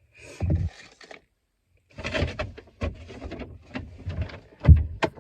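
Handling noises: irregular rustling with a few sharp knocks, the loudest near the end.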